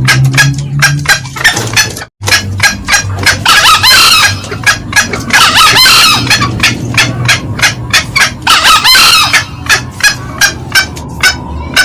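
Green junglefowl calls used as a lure: a fast, steady run of short hen cackles (ngekek), about four a second, with a male's crow breaking in three times. There is a brief gap in the sound about two seconds in.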